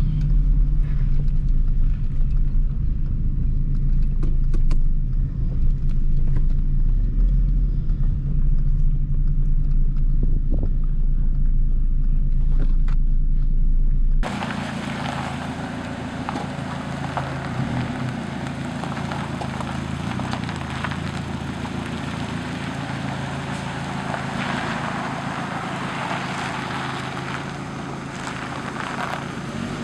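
SAAB 900 Turbo's 2.0-litre 16-valve turbocharged four-cylinder running while driving: a steady low engine drone with road noise. About halfway through the sound changes suddenly to a quieter, even rushing noise with little of the low drone left.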